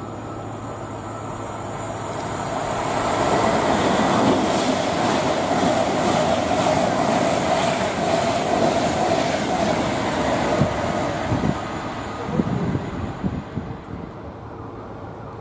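A train running past: the rail noise builds over about three seconds, holds loud, then fades, with a run of sharp wheel clacks over the rail joints near the end.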